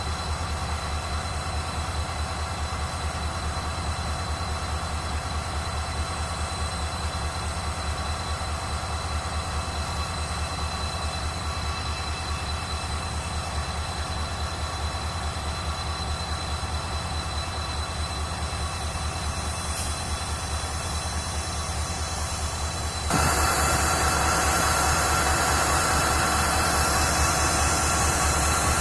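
Diesel freight train at close range: a steady low rumble with several thin, steady high tones over it. About 23 seconds in it suddenly becomes louder and brighter.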